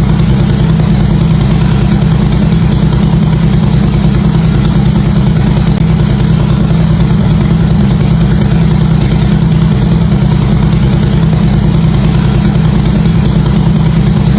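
Harley-Davidson V-twin engine idling steadily through its exhaust, a low, even pulse with no revving.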